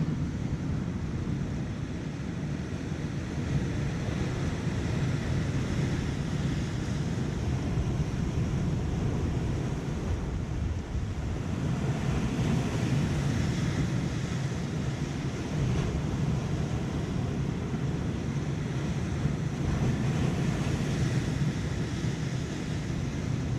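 Surf washing against shoreline rocks, with wind buffeting the microphone: a steady rushing that swells louder about halfway through and again near the end.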